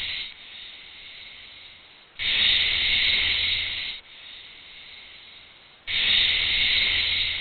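Snake hissing: long, loud hisses alternate with quieter ones, the loud hisses coming at the start, about two seconds in, and again near the end.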